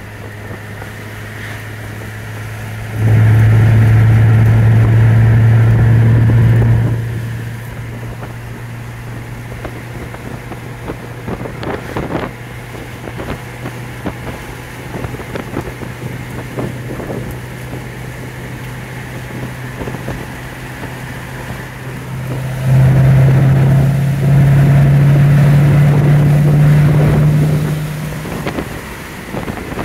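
2007 Corvette's 6.0-litre V8 running at about 2,000 rpm under way, a steady low drone with wind noise. Twice it gets much louder for several seconds as the car speeds up, once a few seconds in and again near the end, the pitch stepping up during the second.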